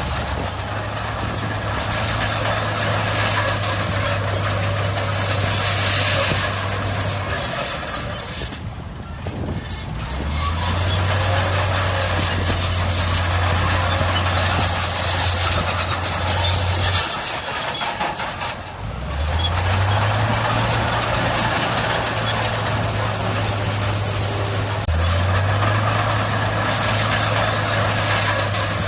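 Heavy diesel earthmoving machinery running under load, with a low engine note that rises and holds for several seconds at a time, drops away briefly about 9 and 18 seconds in, then picks up again.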